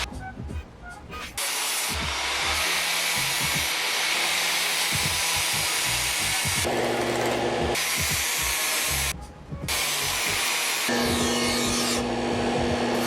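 A power grinder working metal, a steady grinding run in several short clips joined by abrupt cuts, with a brief drop out near the start and another about nine seconds in.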